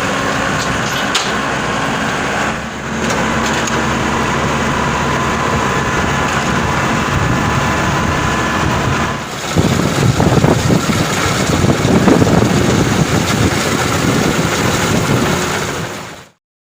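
Engine of a Maxxi Bimo 102 rice combine harvester running steadily with a thin whine; about nine seconds in the sound turns louder and rougher, then fades out near the end.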